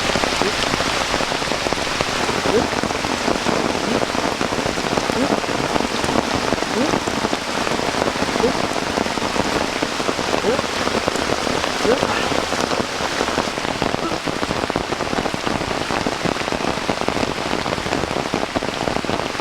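Steady, heavy rain falling, with many individual drops heard as small plinks within the constant hiss.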